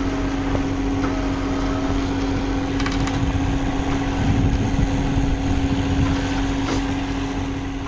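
A vehicle engine running steadily under a constant droning hum, easing off slightly near the end.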